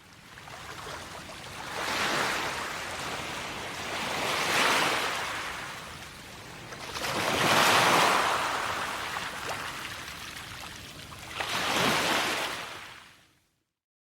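A rushing, hiss-like noise without any clear tone that swells and fades four times, each swell lasting a couple of seconds, and ends abruptly near the end.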